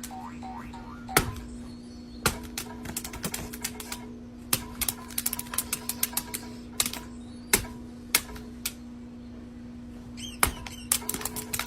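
Irregular sharp clicks and taps, some coming in quick runs, over a steady low hum.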